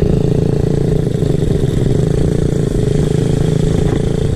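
Small off-road motorcycle engine running at a steady speed.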